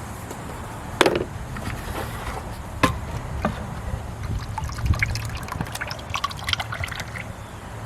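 Brake fluid being poured from a bottle into the brake reservoir, trickling, with a few sharp clicks and a run of small clicks from handling the bottle and cap in the second half.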